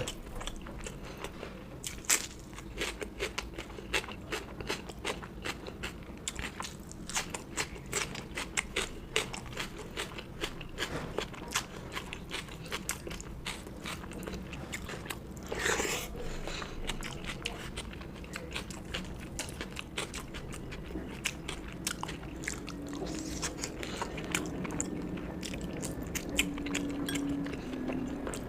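Close-miked eating: a person biting and chewing food with crisp crunching, many quick crackling clicks, thinning out in the second half, with one louder rustling burst about halfway through.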